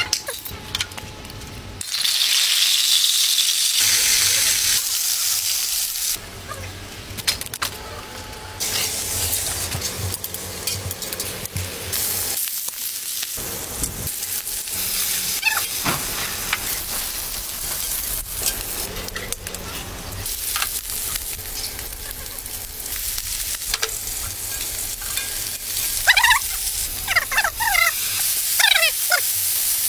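Food sizzling as it fries in hot fat in a large pan, a dense hiss that cuts in and out, loudest a couple of seconds in. Near the end a bird calls in a quick run of short cries.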